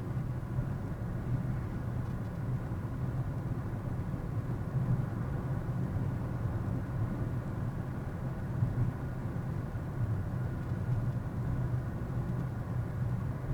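A car driving along at a steady speed, heard from inside the cabin. The engine and tyre noise make an even low rumble, with faint steady tones above it.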